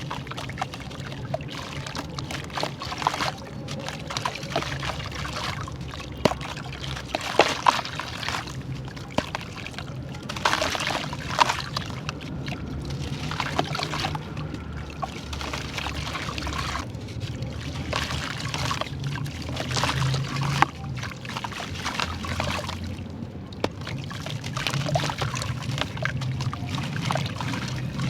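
Crunchy charcoal chunks being dipped in water and crumbling, with dense wet crackling and water trickling and pouring.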